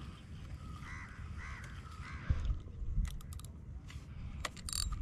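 A bird calling three times in quick succession over a low steady rumble, followed by several sharp clicks and a brief hiss near the end.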